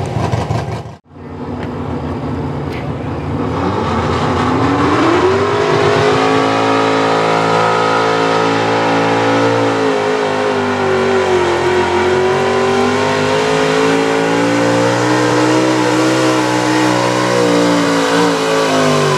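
Small-block V8 engine of a 4x4 pulling truck winding up about three seconds in and held at high revs under load down the track, its pitch sagging and recovering a little, then starting to drop off at the very end as the pull ends.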